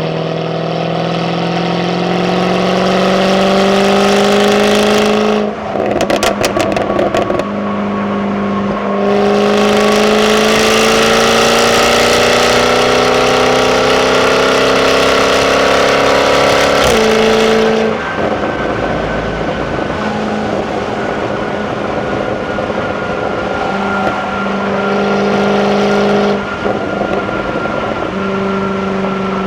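Jaguar F-Type 5.0 supercharged V8 on its stock exhaust, pulling up through the revs twice with a crackling gap at the shift about six seconds in, then settling into a steady cruise at lower revs.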